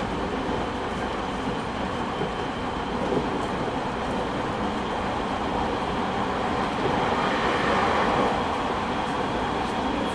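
Steady running noise inside the motor car of a JR East 209 series 3000 electric multiple unit with Mitsubishi GTO-VVVF drive: the wheels rumbling on the rails, with a faint steady high tone. It gets a little louder about seven seconds in.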